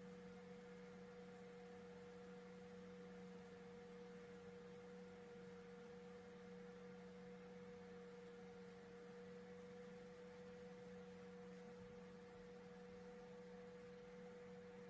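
Near silence with a faint, steady electrical hum made of two unchanging tones, one low and one higher.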